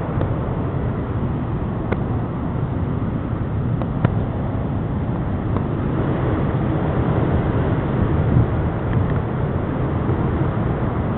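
Hurricane-force wind blowing steadily and buffeting the microphone, with a few faint sharp clicks, likely debris, heard about 2 and 4 seconds in.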